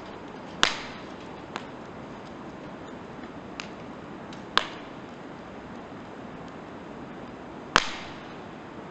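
Wood campfire burning: a steady rush of flame under sharp pops of firewood bursting, loud about two-thirds of a second in, around four and a half seconds, and near the end, with a couple of fainter pops between.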